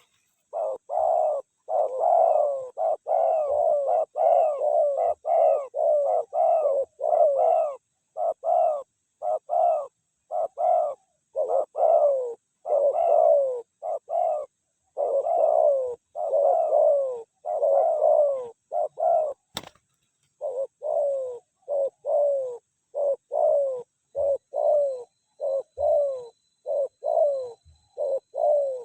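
Spotted doves cooing over and over in quick, closely spaced phrases, with a single sharp click about two-thirds of the way through.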